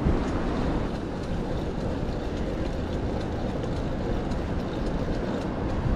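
Steady rumbling noise of city street traffic, heard from a moving bicycle.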